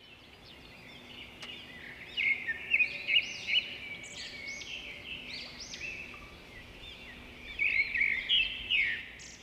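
Birds chirping: many short rising-and-falling chirps, louder in spells about two seconds in and again near the end.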